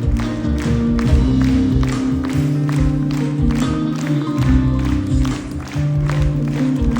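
Live band music with a steady drum beat over a bass line and held chords.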